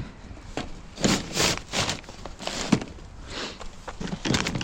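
Irregular rustling and knocking from rubbish being handled and moved about, in several short bursts.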